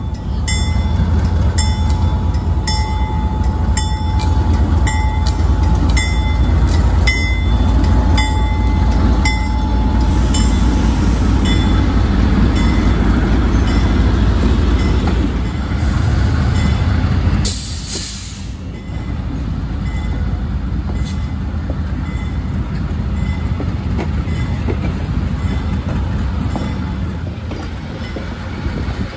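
GE U30C diesel locomotive passing close by with its engine running heavily, its bell ringing in steady strokes for about the first ten seconds. After about seventeen seconds the engine fades and the stainless-steel passenger cars roll past, wheels rumbling and clicking on the rails.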